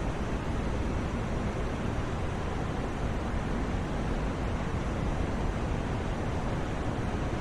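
Continuous white noise for sleep: an even, unbroken hiss, heavier in the low end, with no changes.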